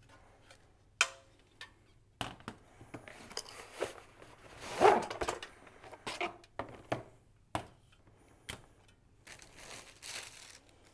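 Air conditioner wall bracket parts being handled and fitted together: a series of irregular knocks and clunks with scraping and rustling between them, the loudest about five seconds in.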